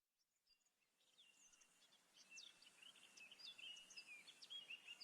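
Faint birdsong: several birds chirping in short, varied calls over a soft background hush, fading in from silence during the first second or two.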